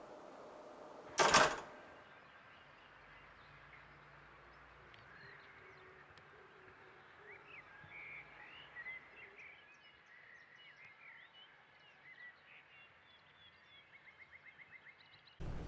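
Birds chirping and calling, with scattered short high chirps and, near the end, a quick run of about eight evenly spaced notes. About a second in there is a short, loud burst of noise.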